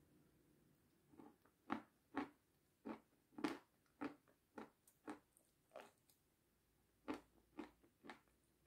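Close-up chewing of crisp meringue: a run of short, sharp crunches about two a second, then after a pause of about a second, three more near the end.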